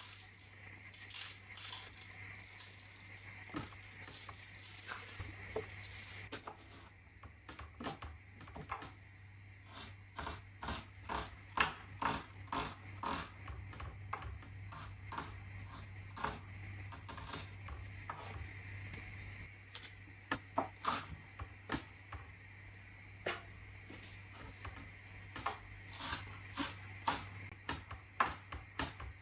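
A run of irregular light clicks and taps, closer together in the middle, over a steady low hum.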